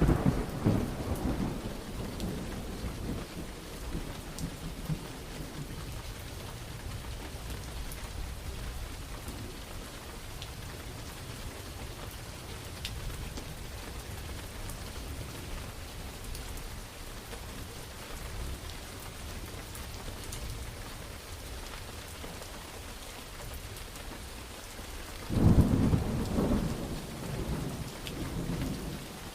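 Steady rain falling during a thunderstorm, with a thunder rumble fading out in the first few seconds and a sudden loud clap of thunder rolling on from about 25 seconds in.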